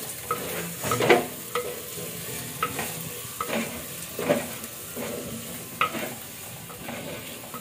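A spoon scraping and stirring in a clay pot as onion, ginger and garlic fry in hot oil, with a steady sizzle under irregular strokes about once a second.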